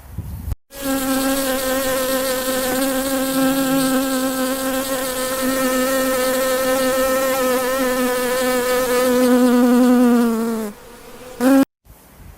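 A flying insect buzzing: one steady, even drone for about ten seconds that dips slightly in pitch as it stops, then a brief second buzz near the end.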